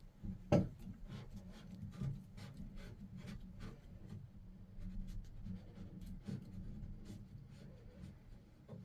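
Light scratching and rubbing with a scatter of small sharp clicks, from hands handling the small parts of a Moen shower valve cartridge.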